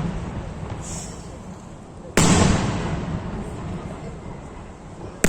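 Aerial firework shells bursting: one loud bang about two seconds in and another at the very end, each trailing off in a long rolling echo, with the fading echo of an earlier bang at the start.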